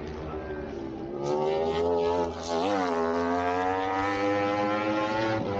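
Superbike racing motorcycle engine revving hard as it accelerates past, with a brief drop in pitch at a gear change midway and then a steady climb in pitch.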